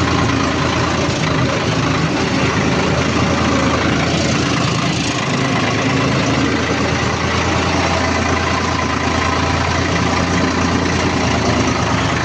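Tractor diesel engine running steadily at low speed, close and loud.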